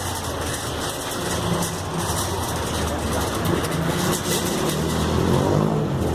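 A car engine running steadily, a low even hum, with faint voices.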